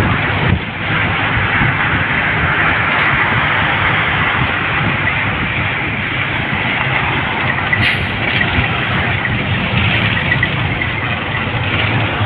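Steady rumble and hiss of a vehicle travelling along a road, with a brief sharp click about eight seconds in.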